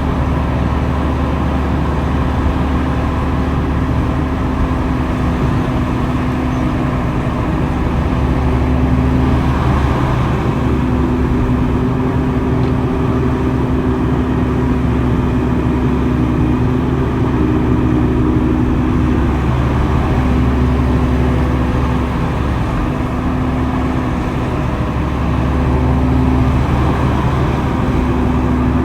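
Heavy earthmoving machinery running steadily, an engine note that drops out and comes back several times as the machine works.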